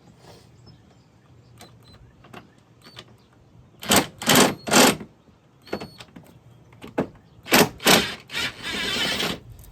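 Cordless power tool run in short bursts: three quick bursts, two more a few seconds later, then a longer run of about a second near the end, with light clicks of handling between.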